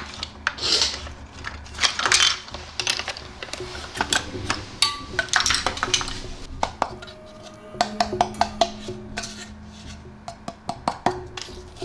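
Many sharp clicks, knocks and clinks of small hard parts being handled and set down, with a couple of short hissing rubs in the first two seconds, over background music.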